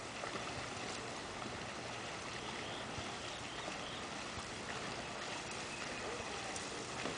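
Steady rushing noise of water on a canal, with a few faint scattered clicks.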